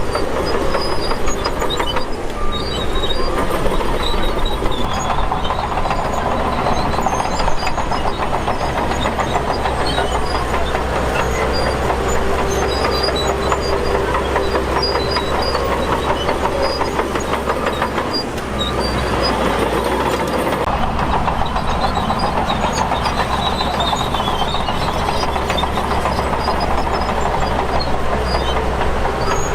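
Shantui DH17 bulldozer's diesel engine running steadily, with the continuous clanking clatter of its steel tracks as it works.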